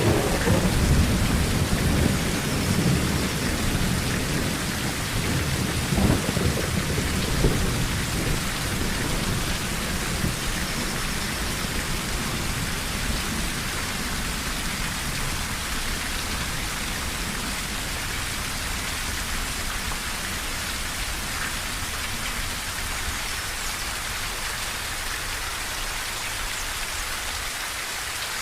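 Steady heavy rain on a tin roof, with rolling thunder rumbling low through roughly the first third, a couple of sharper cracks about six and seven seconds in, then fading away and leaving only the rain.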